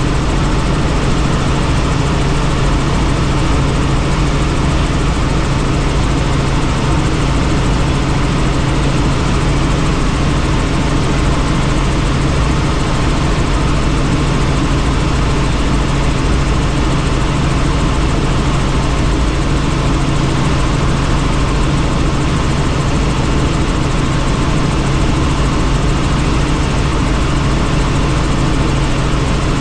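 Helicopter in flight heard from inside the cabin: a loud, steady mix of rotor and engine noise with a constant low hum, unchanging throughout.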